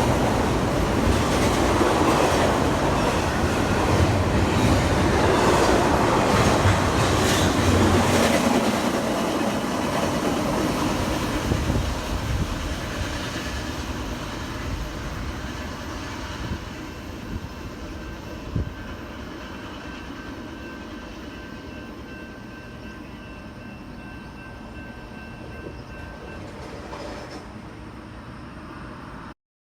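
A train rolling past with wheels clicking over the rail joints, loud at first and fading steadily as it moves away, with faint high steady squeal tones in the later part. The sound cuts off suddenly near the end.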